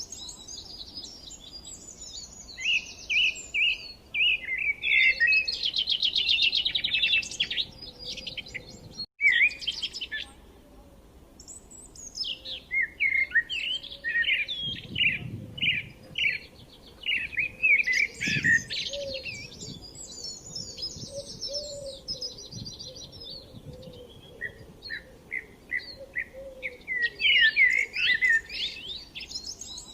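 Songbirds singing in repeated bursts of quick chirps and rapid trills, with a brief silent break about nine seconds in.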